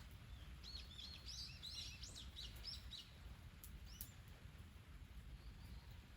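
A small bird chirping: a quick run of short, high, arched notes lasting about two seconds, then a single note about a second later, faint over a low rumble.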